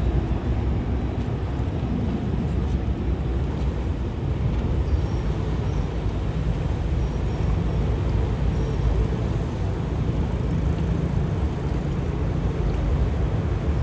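Steady low rumble of a river car ferry's engine running, with no break or change.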